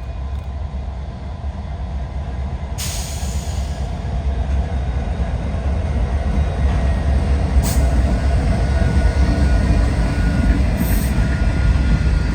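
Train rolling by, a heavy low rumble of wheels on rail that grows steadily louder, with three brief hisses along the way.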